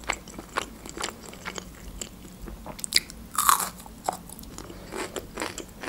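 Crunching bites and chewing of raw bell pepper: a string of small crisp crunches, with a louder bite about three and a half seconds in.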